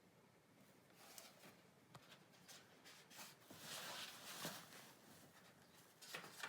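Near silence with faint rustling and a few soft clicks, the rustle strongest about four seconds in.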